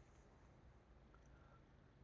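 Near silence: faint steady background hiss of a quiet night.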